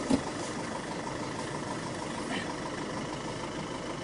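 Safari game-drive vehicle's engine idling steadily, a short while after starting.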